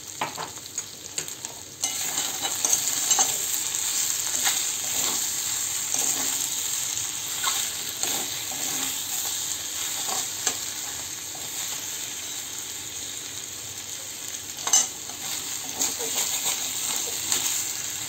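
Banana blossom and potato mixture sizzling as it fries in a metal wok, with a metal spatula scraping and knocking against the pan as it is stirred. The sizzle jumps louder about two seconds in, and one knock near the end of the stirring stands out as louder.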